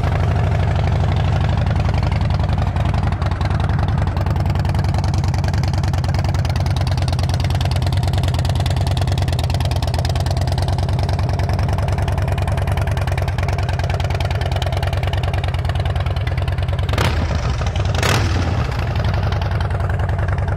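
Harley-Davidson Twin Cam 96 V-twin idling steadily through Vance & Hines aftermarket exhausts, with the even pulsing of the firing strokes. Two short sharp sounds come about a second apart near the end.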